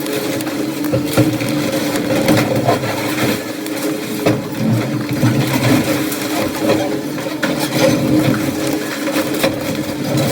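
Excavator's diesel engine running steadily, with scattered knocks and crunches of demolition debris being broken and moved.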